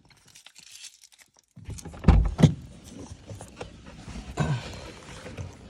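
Dogs scrambling about a car, with a low rumble and two loud knocks about two seconds in and another a couple of seconds later.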